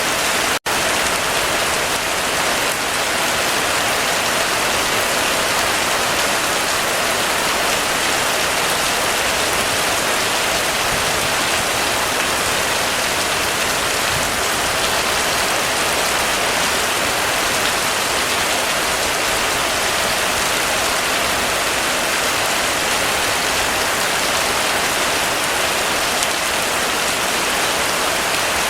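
Heavy rain falling steadily, an even hiss of many drops, with a split-second dropout to near silence about half a second in.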